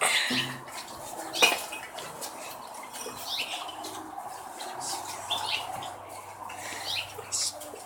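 Light metallic clinking and rattling from a ladder being climbed down, with one sharp knock about a second and a half in.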